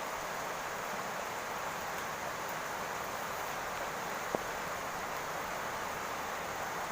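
Steady rain falling on a roof, an even hiss that does not let up, with a single sharp tick about four seconds in.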